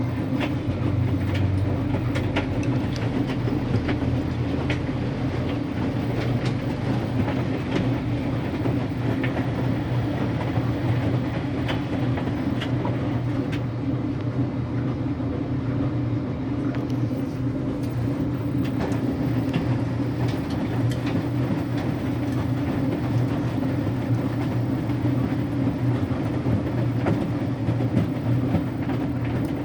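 Electrolux Wascator W355H commercial washing machine running near the end of its wash phase: a steady motor and drum hum with a continual light clatter.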